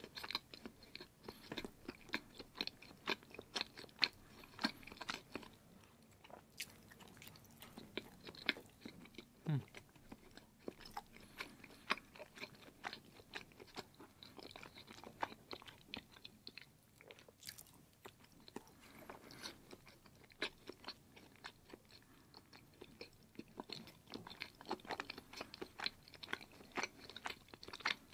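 A person chewing and biting pieces of block cheese: irregular mouth clicks and smacks, several a second.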